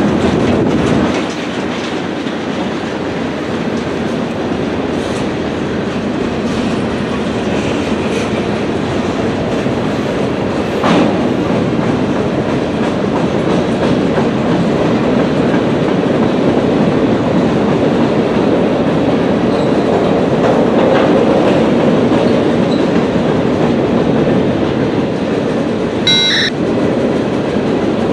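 A freight train's cars rolling past on the rails, a steady loud noise of wheels on track. A sharp click sounds about eleven seconds in and a brief high-pitched squeal near the end.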